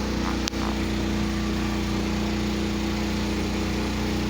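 A boat's engine running steadily at constant speed, a low even drone. A brief click with a momentary drop in sound comes about half a second in.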